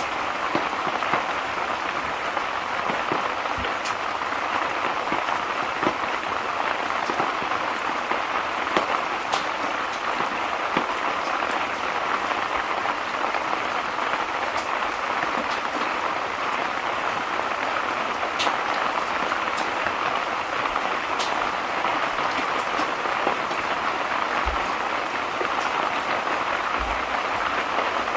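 Steady rain falling, an even hiss with scattered sharp ticks now and then.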